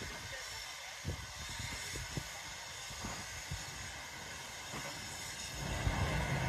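Heritage railway carriages rolling slowly beneath, with a few scattered low knocks from the wheels and a steady hiss behind. A low rumble builds near the end as a closer vehicle comes underneath.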